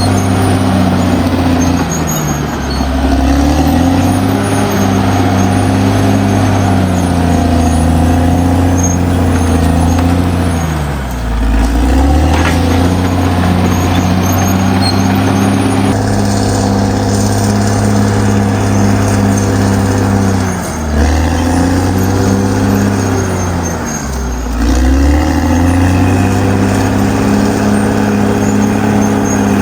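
Caterpillar D6R XL bulldozer's diesel engine running loud and steady. Its pitch dips and climbs back four times: about two seconds in, near the middle, and twice close together in the last third.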